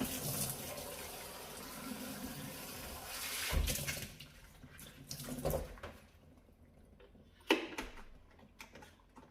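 Water running from a tap for about four seconds, then scattered knocks and handling clicks, the loudest a sharp knock about seven and a half seconds in.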